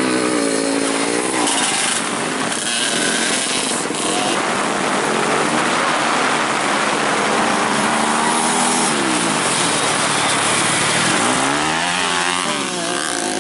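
Racing dirt-bike engines revving hard on the track, with several bikes overlapping. The pitch rises and falls as they accelerate, shift and pass, with clear falling sweeps about two-thirds of the way in and again near the end.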